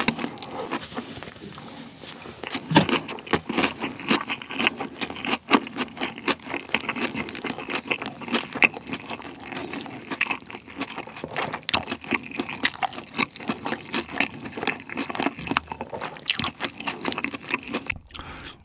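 Close-miked chewing of a large mouthful of fried chicken burger with egg and ham: a steady run of wet mouth clicks and smacks.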